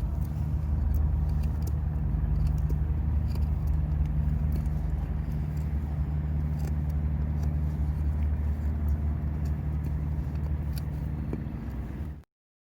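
A motor running steadily with a low, even hum and a few faint clicks over it; it cuts off abruptly near the end.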